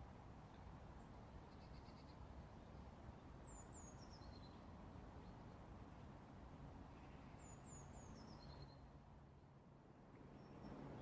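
Quiet woodland: a songbird sings two short phrases of high notes that step down in pitch, a few seconds apart, over a faint low rush.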